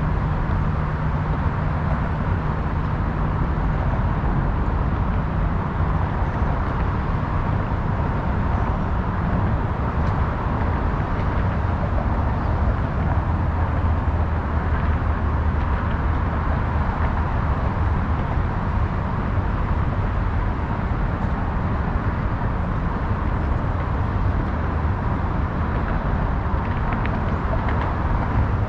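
Steady road-traffic noise: a continuous wash of passing cars with a low engine hum underneath that shifts a little in pitch.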